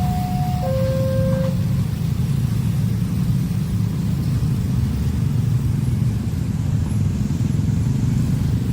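A train passing over a level crossing with a steady low rumble, while the crossing's electronic two-tone warning alarm alternates high and low, each tone held under a second. The alarm drops out about a second and a half in, leaving the train rumble alone.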